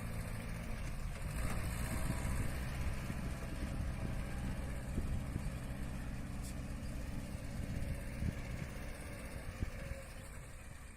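VST Shakti MT270 mini tractor's diesel engine running steadily, growing fainter near the end.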